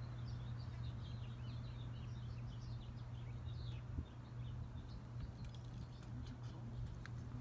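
Small birds chirping in quick, short notes, busiest over the first half and thinning out later, over a steady low hum.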